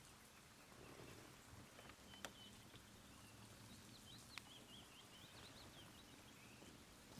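Near silence with faint outdoor ambience: a small bird chirping in short, high, wavering notes for a few seconds, and two soft clicks.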